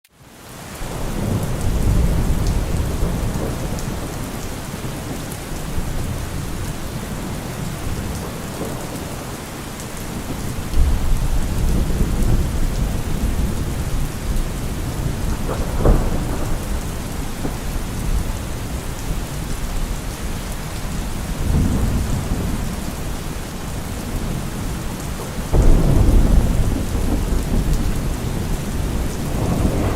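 Steady rain with rolling thunder. The sound fades in at the start, and low rumbles swell up several times, with a sharper thunderclap about halfway through and a strong roll a few seconds before the end.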